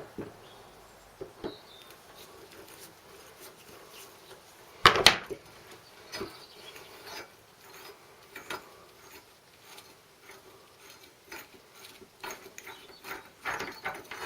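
Hand tools working the blade bolt loose on a rotary lawn mower: scattered metal clicks and knocks, with one louder knock about five seconds in and a quicker run of clicks near the end.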